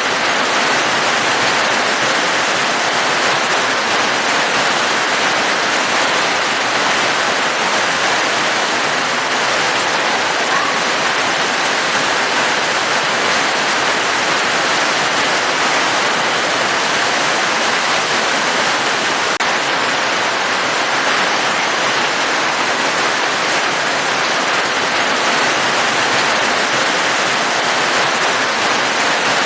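Steady heavy rain: a dense, even rushing hiss with no single drops standing out, at a constant level.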